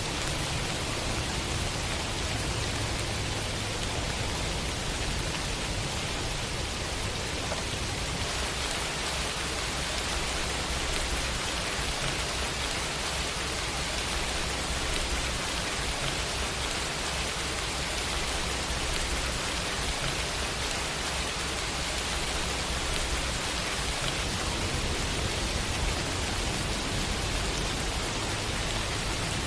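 Steady heavy rain falling on city surfaces: an even, unbroken hiss with a low rumble underneath, its texture shifting slightly about eight seconds in.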